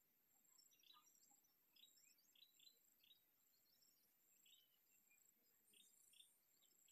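Faint short bird chirps repeating every half second or so, over a steady high thin whine.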